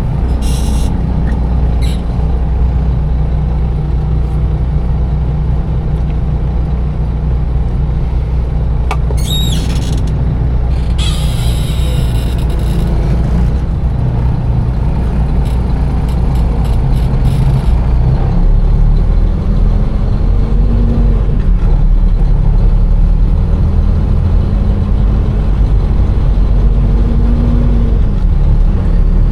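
A container truck's engine running heavily under the cab, with a sharp squeal about nine seconds in and a short hiss a couple of seconds later. The engine note rises from about two-thirds of the way through as the truck pulls away.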